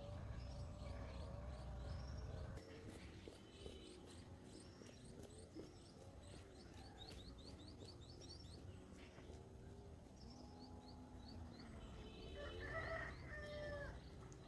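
Faint birdsong: small birds give quick, repeated high chirps over lower calls, and a louder call comes near the end.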